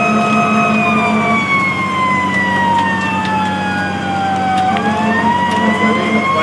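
Fire engine siren wailing: the pitch holds, falls slowly for about four seconds, then starts to rise again, over the truck's engine running.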